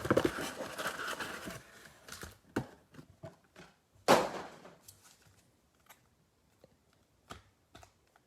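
A trading-card box and its packaging being handled and opened. There is rustling at first, then one sharp snap about four seconds in, then a few faint clicks.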